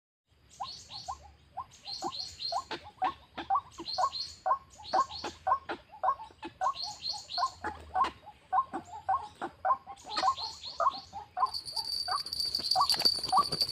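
White-breasted waterhen calling over and over in a steady rhythm of short notes, about three a second. A steady high-pitched drone joins near the end.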